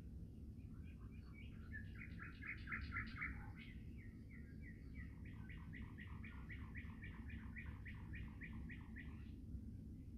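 A songbird singing faintly over a low steady rumble: first a short burst of quick notes, then a long even run of repeated notes, about five a second, that stops near the end.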